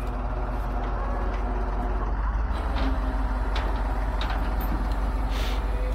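Flatbed tow truck's engine running steadily at idle: a low, even rumble with a few faint clicks over it.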